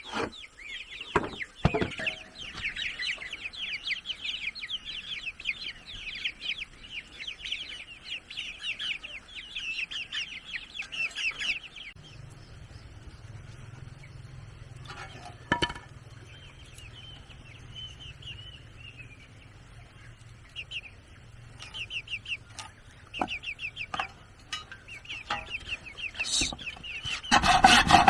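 Chickens clucking and calling in quick succession, busy for the first dozen seconds and then sparser. About a second before the end, a loud rhythmic rasping on wood starts.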